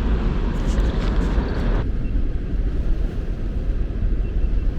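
Steady low rushing rumble of water pouring through a river lock-and-dam spillway. A few light clicks come in the first two seconds, and the higher hiss drops away abruptly just under two seconds in.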